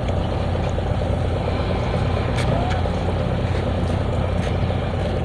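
Steady low drone of a running engine, with a few faint clicks about halfway through and near the end.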